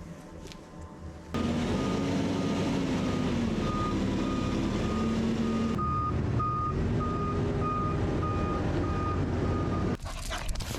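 Heavy vehicle reversing: a reverse alarm beeping about twice a second over its running engine, whose note rises and falls slightly. It starts suddenly about a second in and cuts off near the end.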